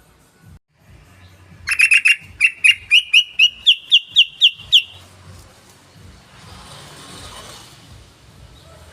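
Yellow-vented bulbul (trucukan) calling: a fast run of loud, sharp chirping notes, about four a second for roughly three seconds, starting a couple of seconds in and creeping slightly higher in pitch as it goes.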